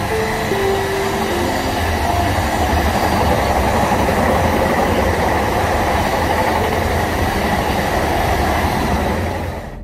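Freight train of long blue covered bogie wagons passing close by at speed: a steady rumble and rattle of wheels on rail that cuts off suddenly near the end.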